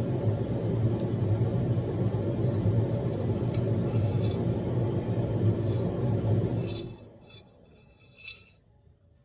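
A motor or engine running with a steady low rumble, which dies away about seven seconds in. A faint short knock follows near the end.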